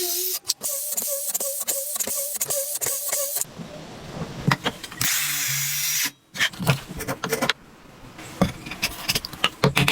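Workshop tool sounds in short, abruptly cut bursts: a power tool running in pulses, a loud hissing stretch about five seconds in, and sharp knocks and clicks between them.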